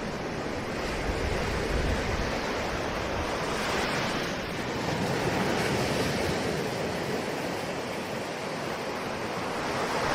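Ocean waves breaking and washing on shore, a continuous surf rush that swells and eases every few seconds.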